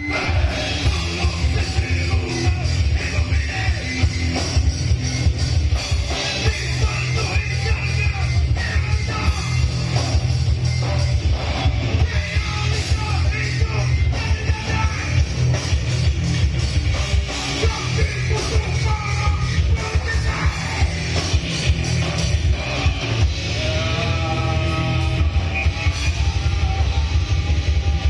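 A rock band playing live, with distorted guitars, bass and rapid drumming under a yelled, shouted vocal, in a heavy punk or hardcore style.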